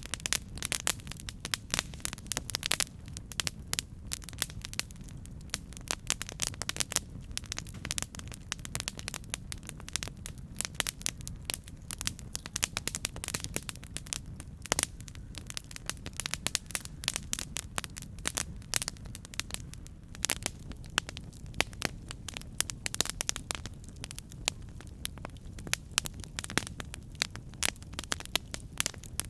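Campfire burning: a steady low rumble under constant irregular crackling and sharp pops of burning wood.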